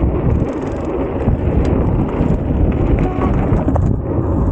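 Wind rushing over the microphone while riding a mountain bike down a dirt trail, with small clicks and rattles from the bike and tyres.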